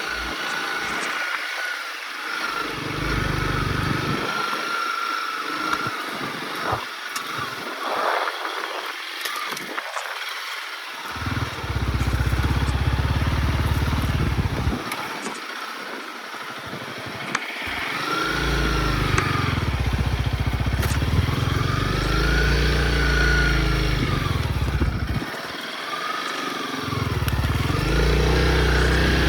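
Honda CRF motorcycle engine running under way, its pitch repeatedly rising and falling with throttle and gear changes. A low rumble cuts in and out several times.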